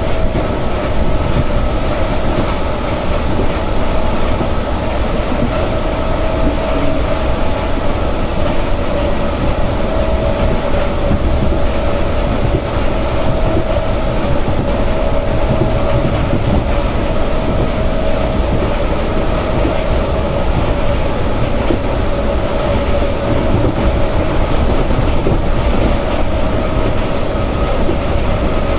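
Electric passenger train running along the track, heard from inside a carriage: a steady rumble of wheels on rails with a constant whine held over it throughout.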